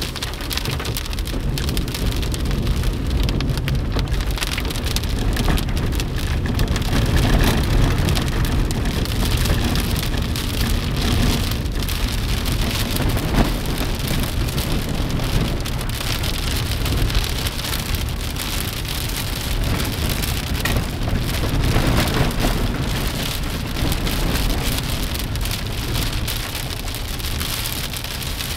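Moderate to heavy rain falling steadily, a dense even hiss of drops striking surfaces, with a steady low rumble underneath.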